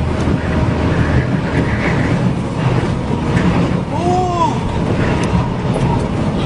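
Strong wind rushing and buffeting against the microphone over the rumble of heavy truck traffic, steady and loud. About four seconds in, a brief high tone rises and falls.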